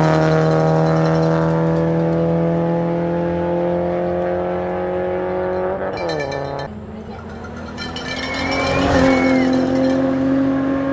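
Rally car engine pulling hard, its note climbing steadily for about six seconds. The note then drops suddenly with a brief crackle as the driver lifts, and the engine comes back on and pulls again at a higher note.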